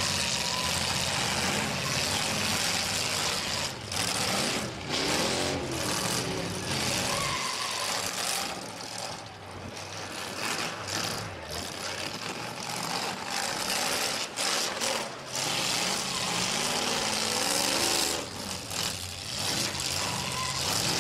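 Demolition derby cars' engines running and revving, the pitch swinging up and down several times as the cars accelerate and back off.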